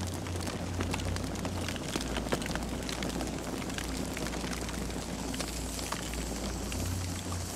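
Campfire burning, wood crackling and popping in many quick irregular snaps over a steady low rumble of the flames.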